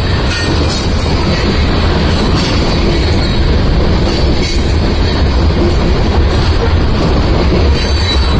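Freight train of covered hopper cars rolling past close by: a loud, steady rumble of steel wheels on the rails, with occasional knocks.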